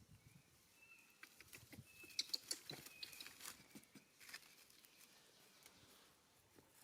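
Faint rustling and small clicks, busiest from about two to four seconds in, with a few short high-pitched chirps among them.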